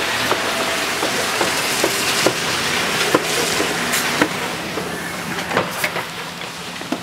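Steady running noise of the Volkswagen Golf Mk5's idling engine, heard through the open driver's door, with a scatter of short clicks and knocks from the camera being handled against the door and seat.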